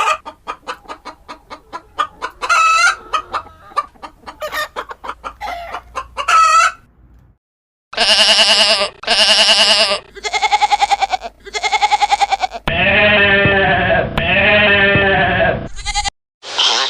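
Chickens clucking in quick runs of short notes for several seconds, then, after a brief gap, a rooster crowing in a few loud, drawn-out calls, the last about three seconds long.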